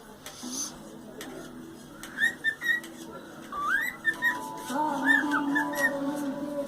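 Cockatiel whistling: short, arching notes in three quick groups, about two seconds in, around four seconds in, and again about five seconds in.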